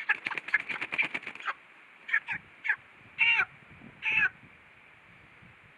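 Meat chickens squawking in distress while hung upside down by the feet. A quick flurry of short, sharp sounds lasts about a second and a half, then five separate squawks follow, each falling in pitch.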